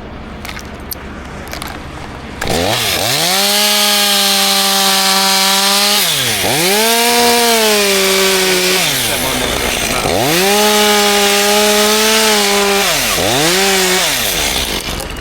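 Two-stroke chainsaw revved to full throttle in four bursts, a high-pitched engine note that climbs fast, holds, then falls back toward idle between bursts. The first burst comes in abruptly about two and a half seconds in.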